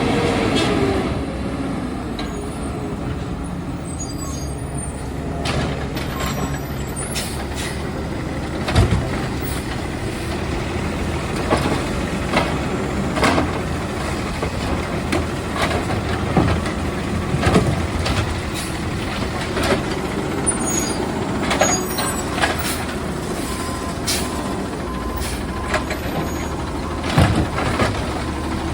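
Garbage truck engine running steadily, with a burst of air-brake hiss about a second in and repeated short knocks and clanks throughout.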